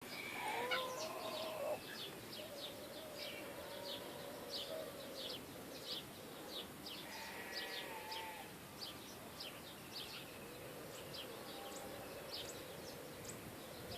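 Birds chirping: a steady stream of short, high, quickly falling chirps, with a few lower whistled calls among them, over an even background hiss.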